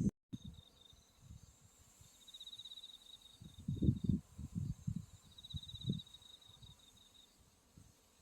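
Autumn crickets chirping in repeated high-pitched trills of rapid pulses, each bout about a second long. A few low thumps on the microphone come in the middle.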